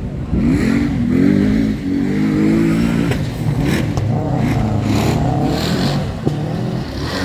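Rally car engine revving hard as the car slides through a gravel stage, its pitch rising and falling repeatedly as the driver comes on and off the throttle, with a few short sharp cracks about three to four seconds in.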